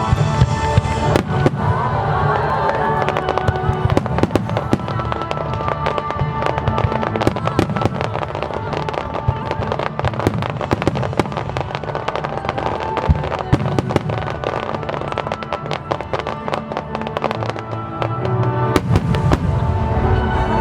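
A rapid, dense barrage of aerial firework shells bursting and crackling, several reports a second, in a starmine display, with a short lull near the end before more bursts. Music plays underneath from the show's loudspeakers.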